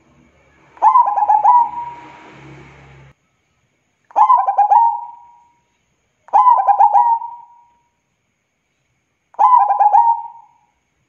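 Zebra dove (perkutut) cooing: four short phrases of quick rippling coos, each trailing off in a drawn-out note, a few seconds apart.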